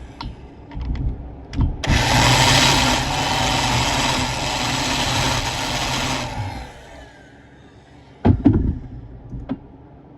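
A small power tool runs for about four and a half seconds, switching on abruptly and then winding down, with scattered clicks and knocks before and after it.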